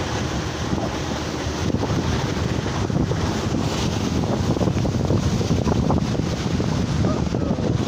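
Blizzard wind blowing hard across the microphone: a loud, steady rushing buffet, heaviest in the low rumble.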